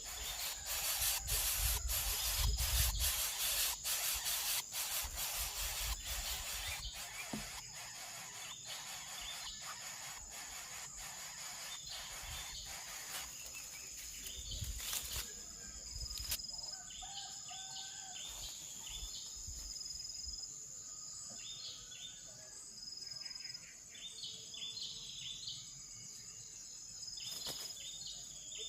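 Steady high-pitched insect drone with many short bird chirps through the second half. Over the first seven seconds there are rapid rustling clicks and a low rumble.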